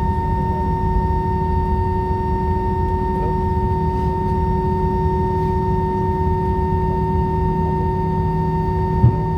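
Jet airliner heard from inside the cabin while taxiing after landing: a steady high whine of fixed pitch over a low engine rumble, the unusual screeching noticed after one engine was shut down. A single short knock sounds near the end.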